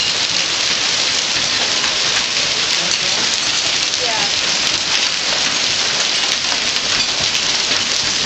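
Hailstorm: hail and heavy rain pelting down in a dense, steady patter with no let-up.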